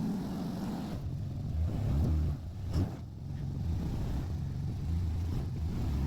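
Off-road 4WD engine running and revving unevenly under load as the vehicle crawls over a rocky bank, with one sharp knock a little before halfway.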